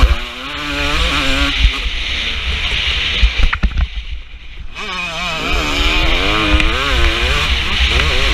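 KTM 250 SX two-stroke motocross engine under hard riding, its revs climbing and falling again and again. The engine drops away for about a second near the middle, after a couple of sharp knocks, then picks up and revs hard again.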